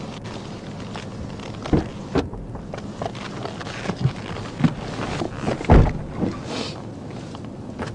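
Steady wind noise on the microphone with several scattered knocks and thumps, the loudest a little past the middle.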